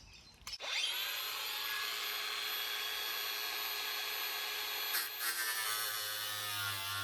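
Cordless angle grinder spinning up with a rising whine about half a second in, then running at a steady high pitch. About five seconds in, a lower grinding note joins as the disc works a thick piece of steel.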